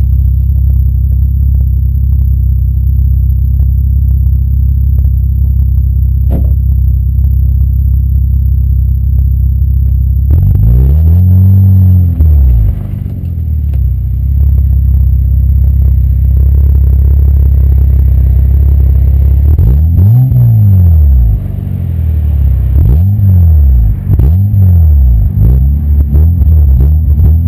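Ford Probe's 24-valve V6 heard through its stock exhaust. It idles steadily for about ten seconds, then is revved once. Near the end it is blipped several times in quick succession, each rev rising and falling in pitch.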